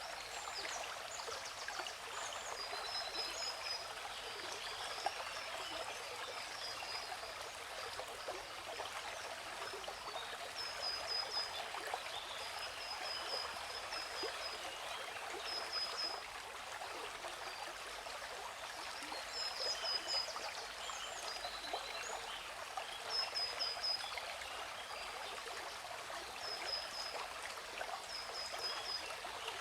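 Steady rush of a waterfall with small birds chirping over it, in short high chirps that come in quick runs of two to four every few seconds.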